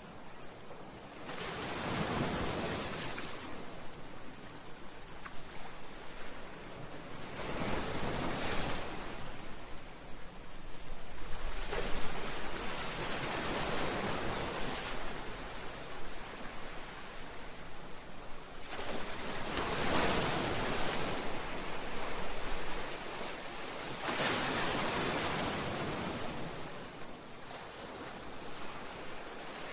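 Sea waves breaking against a seawall and breakwater rocks, surging in a wash of surf every few seconds with the water churning in between.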